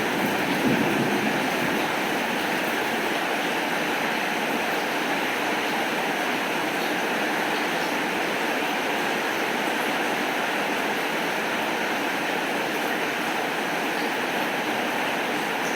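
Steady rainfall: a constant, even hiss of rain that holds the same level throughout.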